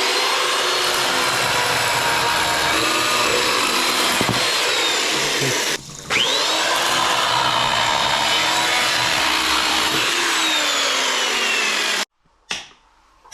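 Handheld electric power tool running in two long runs. Each starts with a rising whine as the motor spins up. There is a short break about six seconds in, and the tool cuts off abruptly near the end.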